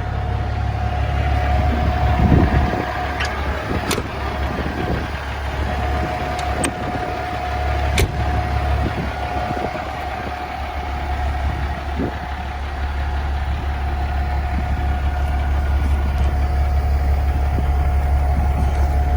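2014 Kenworth T800 CNG semi truck's natural-gas engine idling steadily with a low rumble and a constant tone above it. There are a few sharp clicks, around four and eight seconds in.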